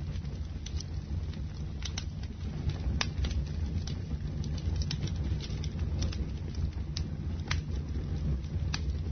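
Bonfire burning: a steady low rush of flames with irregular sharp wood crackles and pops, a few louder snaps scattered throughout.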